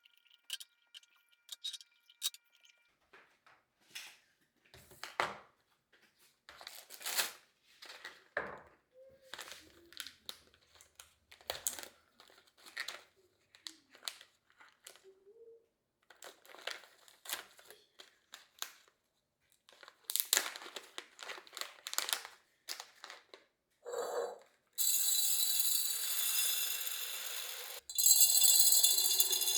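Kitchen items handled by hand: plastic packaging crinkling and rustling with light clicks and knocks at an irregular pace. In the last few seconds a steady, loud rushing noise starts, breaks off briefly, and resumes.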